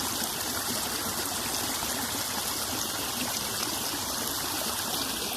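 Floodwater draining off a flooded rice paddy: a steady flow of running, trickling water.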